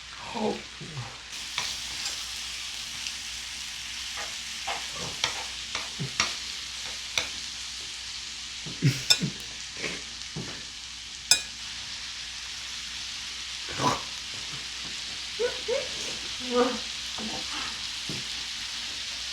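Korean barbecue food sizzling steadily in a hot pan, with scattered sharp clicks and knocks over it, the loudest about halfway through.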